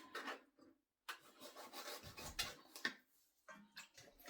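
A blade cutting the toes off raw chicken feet: rubbing and scraping with a few sharp clicks and a dull knock.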